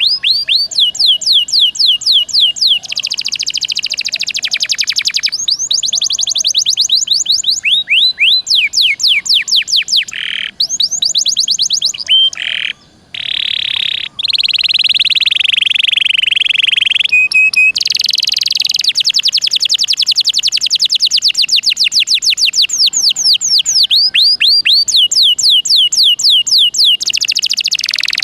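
Domestic canary singing loudly and continuously: fast runs of repeated notes sweeping downward, about ten a second, alternating with steadier buzzing rolls, with a few short breaks near the middle.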